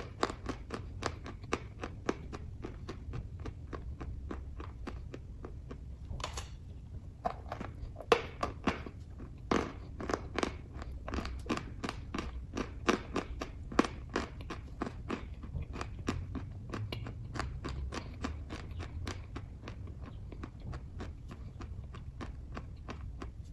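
Close-miked chewing of kaju katli (cashew fudge), with quick, moist mouth clicks about three times a second and a few louder bites. A low steady hum runs underneath.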